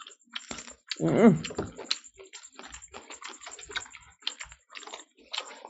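Close-miked eating sounds: many quick wet clicks and smacks of chewing as fried fish and rice are eaten by hand. A short vocal sound about a second in is the loudest thing.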